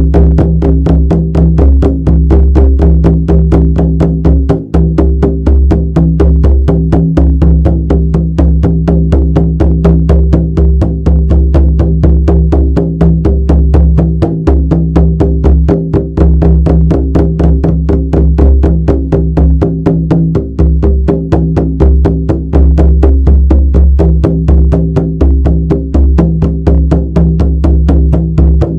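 Shamanic frame drum beaten in a fast, steady, unbroken rhythm, each strike leaving a deep ringing tone underneath.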